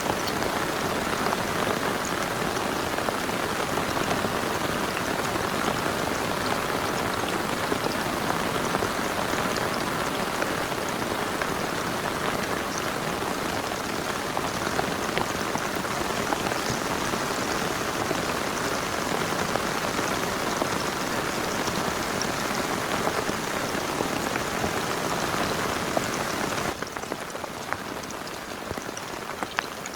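Heavy rain falling steadily, with individual drops ticking sharply through it. About 27 seconds in it suddenly becomes quieter.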